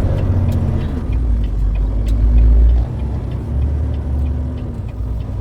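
Semi-truck running down the road, heard from inside the cab: a steady engine drone over heavy low road rumble.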